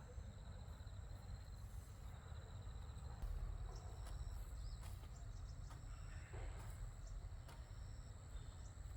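Faint outdoor ambience: insects chirping steadily at a high pitch over a low rumble, with a few scattered clicks.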